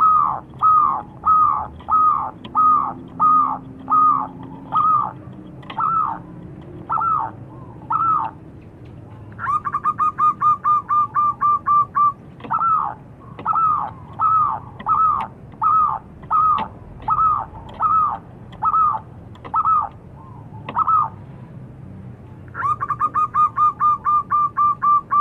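Zebra dove (perkutut) calling: a long series of short coos that each dip in pitch, about two a second, broken twice by a faster run of a dozen or more quick notes at the same pitch.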